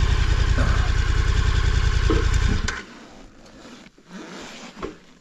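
Adventure motorcycle engine idling with an even low pulse, which stops abruptly about halfway through, leaving only a few faint knocks.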